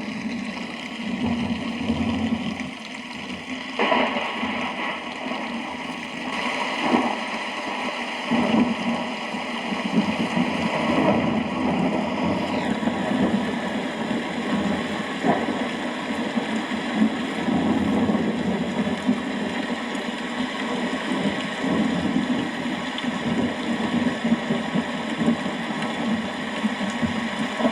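Steady rain falling with a continuous low rumble of thunder that swells and eases.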